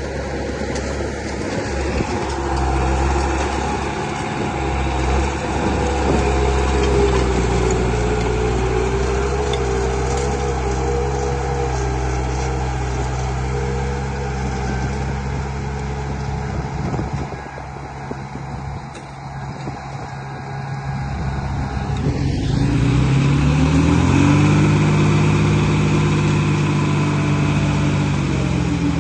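A heavy vehicle's engine running steadily. It eases off and gets quieter for a few seconds past the middle, then revs up and holds a higher pitch to the end.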